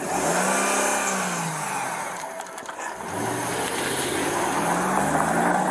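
A car engine revving hard as the car speeds away, heard through a police body camera's microphone. The engine's pitch climbs and falls over the first two seconds, then climbs again.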